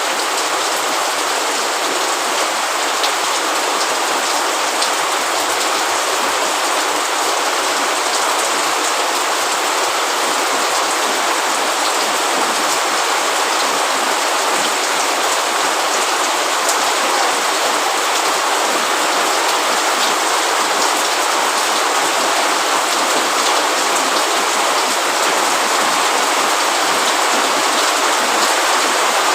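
Rain falling steadily: a dense, even hiss with scattered faint drop ticks.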